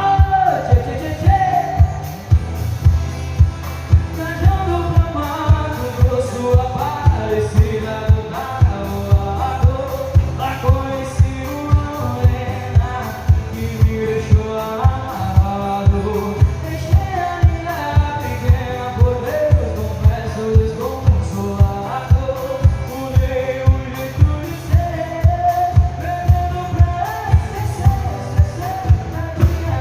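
Live sertanejo song with a male lead voice singing over a band, with a steady kick-drum beat at about two beats a second.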